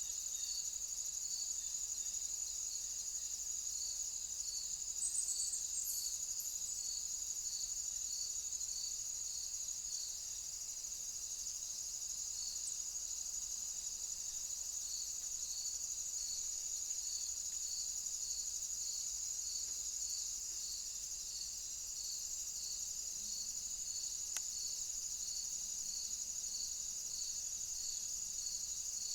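Insects stridulating, crickets or bush-crickets: a steady high-pitched trill with a second, lower chirp repeating evenly about once a second.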